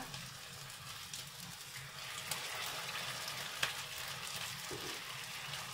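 Potato chop patties sizzling as they shallow-fry in very hot oil in a frying pan, a steady hiss with a few sharp pops and crackles. The sizzle grows a little louder about two seconds in.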